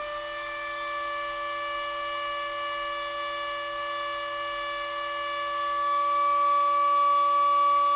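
Stepper motors of a homemade Arduino CNC machine, driven by A4988 stepper drivers, whining at a steady pitch as they drive the axes. The pitch shifts right at the start, and the whine grows louder about six seconds in.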